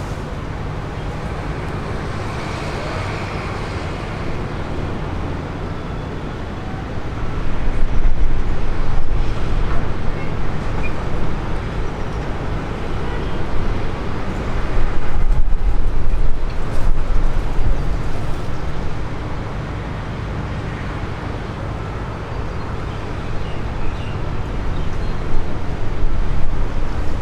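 Aircraft noise at an airport: a steady low rumble that swells twice, about seven and again about fourteen seconds in, and grows louder again near the end.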